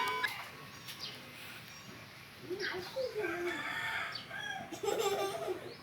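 A rooster calling, with a few drawn-out calls that rise and fall in pitch in the second half.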